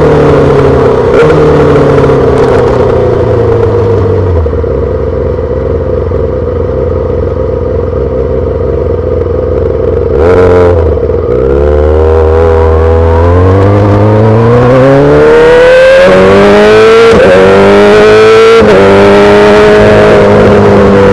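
A 2008 Yamaha R6 inline-four running through a full SC-Project exhaust. The engine slows to a low, steady run, gives a quick throttle blip about halfway through, then accelerates with rising pitch through a couple of upshifts before settling into a steady cruise near the end.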